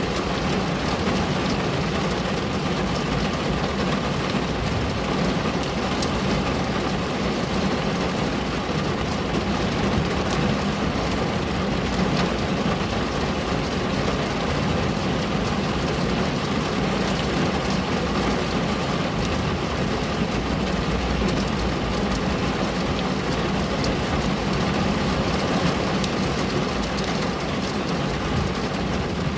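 Steady rain falling on a window, an even hiss with a low rumble underneath and a few faint ticks of drops striking the glass.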